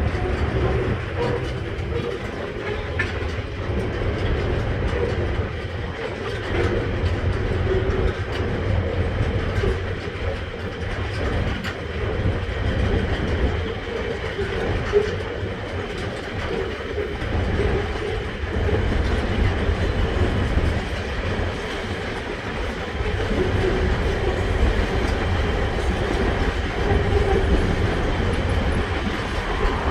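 Freight train rolling over a viaduct: a steady rumble of wheels on rail with scattered clicks and a faint ringing tone.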